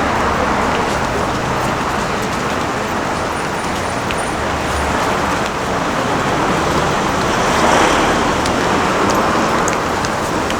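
Street traffic noise: a steady wash of passing road vehicles, swelling slightly about three quarters of the way through.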